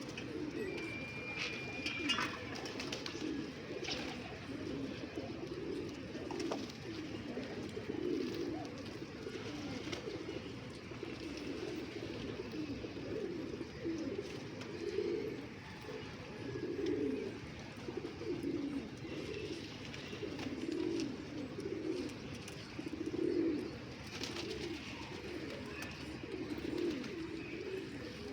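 Several domestic pigeons cooing, their low, rolling calls overlapping one after another without a break.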